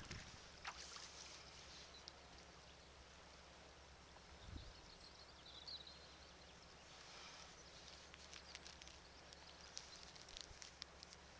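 Faint ambience on the water from a sea kayak: light lapping and dripping with scattered small high ticks, over a steady low hum.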